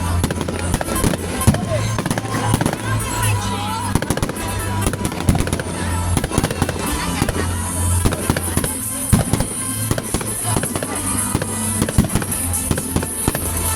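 Fireworks going off in rapid succession, a dense run of crackles and sharp bangs, over music with a steady bass line.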